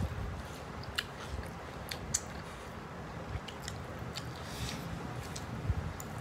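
Two people eating mutton biryani and raw tomato by hand: chewing with short, scattered mouth clicks.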